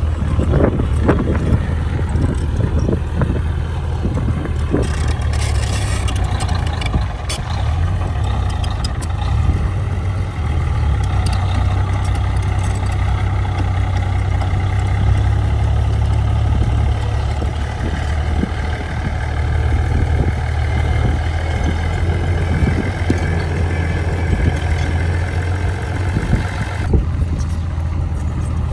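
A heavy diesel engine of an earthmoving machine running steadily with a low hum, with scattered short clanks and knocks, mostly in the first third.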